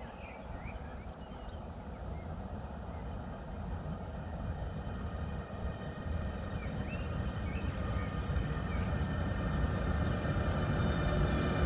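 Siemens Vectron electric locomotive hauling a container freight train, approaching and getting steadily louder: a low rumble of wheels on rail, with a whine of steady tones from the locomotive coming up near the end.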